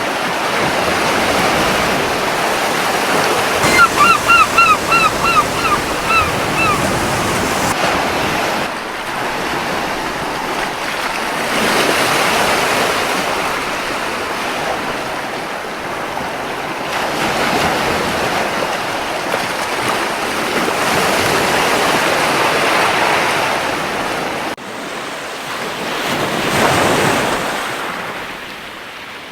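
Surf washing in, rising and falling in slow swells every few seconds. About four seconds in, a gull gives a quick run of short, loud calls that lasts about three seconds.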